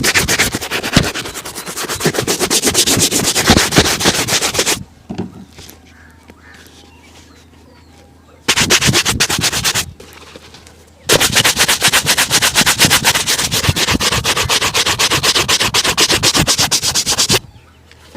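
A leather shoe being buffed with rapid back-and-forth rubbing strokes during a shoe shine, in three spells: a long one, a short one about halfway through, and another long one, with brief pauses between them.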